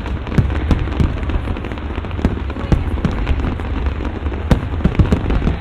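Aerial fireworks bursting in quick, irregular succession: sharp bangs and crackles, several a second, over a steady low rumble.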